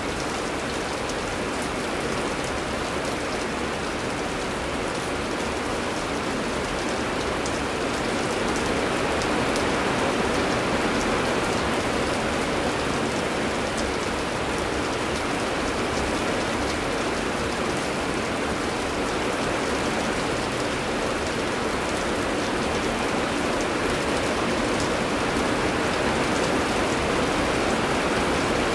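Heavy rain falling steadily, a dense even hiss with many small drop ticks through it.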